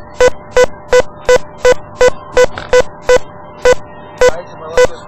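Rapid electronic beeping: short, loud, high beeps about three a second, with a couple of slightly longer gaps near the end, over a faint steady tone.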